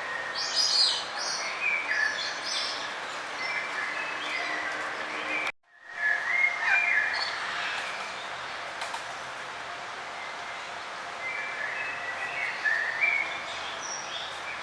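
Songbirds chirping and singing in short bursts of high chirps and trills over a steady outdoor background hiss. The sound drops out completely for a moment about five and a half seconds in, then the chirping resumes.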